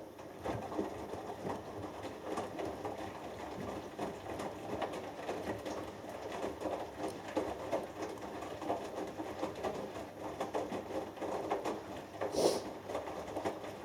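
Front-loading washing machine drum tumbling a wet 6 kg cotton load during the wash phase, with water and laundry sloshing and pattering irregularly as the drum turns. Near the end there is one louder splash or thump.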